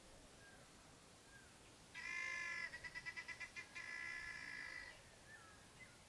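A bird calling: one drawn-out call about three seconds long, rapidly pulsing in the middle, with a few faint short chirps before and after it.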